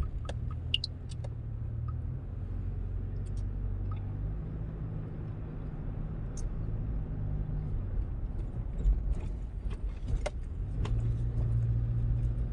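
Car engine and road noise heard from inside the cabin while driving: a steady low drone, with a few light clicks and ticks.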